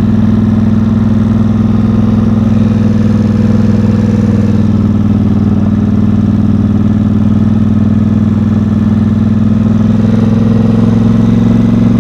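Engine of Big Red, a small off-road vehicle with a partly straight-piped exhaust, running at a steady low speed while it is driven gently so its cold gearboxes can warm up. Near the end the engine pitch rises slightly.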